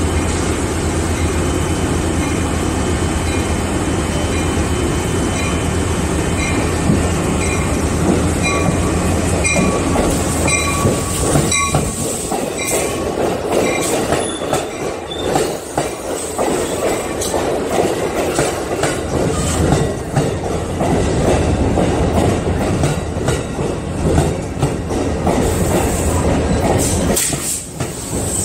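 Passenger train rolling slowly past along the platform. A locomotive hums steadily at first, then the wheels squeal in short repeated chirps, and the cars clack and knock over the rail joints as they go by.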